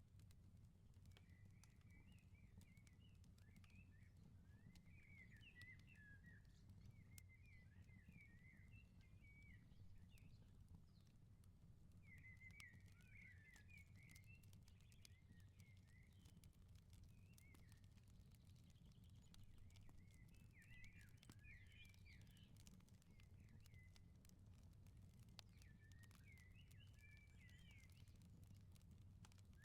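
Faint outdoor firepit ambience: scattered small crackles and pops from a wood fire over a low steady rumble, with small birds twittering in several short bursts.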